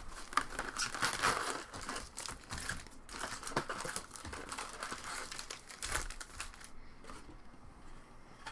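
Foil trading-card pack wrappers crinkling and tearing as packs are ripped open, with many sharp crackles. The crinkling dies down near the end.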